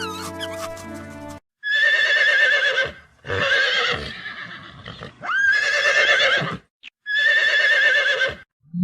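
Horse whinnying four times in a row, each call about a second and a half long with a quavering pitch, the third sweeping sharply up at its start. A short stretch of music ends just before the first whinny.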